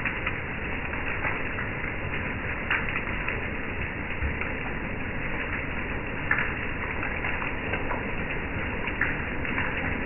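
Heavy rain falling on a wooden deck and metal patio furniture: a steady hiss with scattered sharper drip impacts, the strongest about six seconds in.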